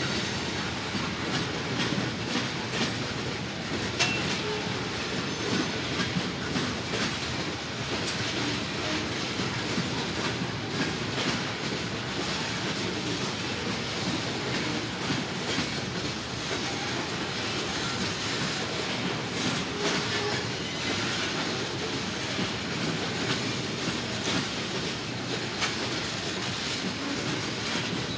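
Norfolk Southern freight train's cars rolling past, their wheels clacking steadily over the rail joints.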